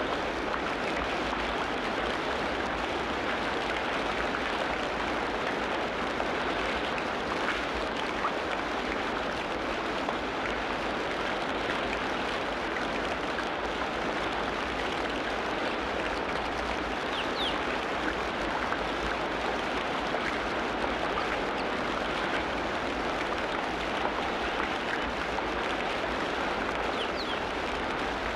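Tropical rainforest ambience: a steady, dense hiss of falling or running water, with a few faint, short bird chirps scattered through it.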